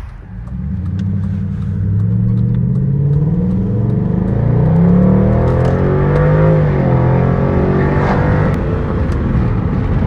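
2006 Lincoln LS's muffler-deleted 3.9-litre V8 exhaust under acceleration, its pitch climbing and dropping back several times as the car shifts up through the gears, then holding steadier for the last few seconds.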